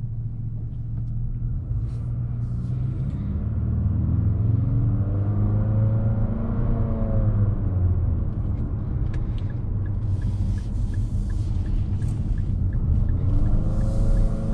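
Cabin sound of a 2021 Infiniti QX50's turbocharged four-cylinder pulling through its CVT in sport mode over steady road rumble. The engine note rises, drops back as the transmission mimics a gear change, then rises again near the end. Faint regular ticking, about three a second, runs through the second half.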